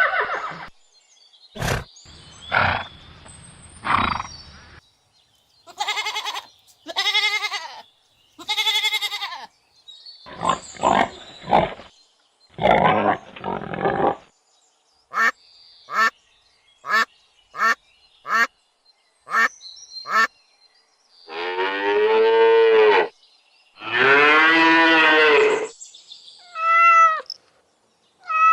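A series of different animal calls played one after another with short gaps: short chirps in a quick run, two long drawn-out calls, and near the end, a cat meowing.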